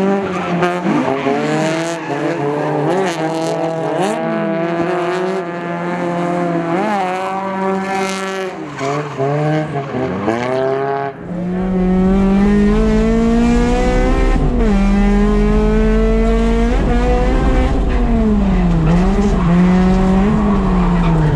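Drift car's engine revving hard, its pitch climbing and dropping again and again, with tyres squealing. About eleven seconds in the sound changes abruptly to a steadier, slowly rising engine note with a deep rumble beneath it.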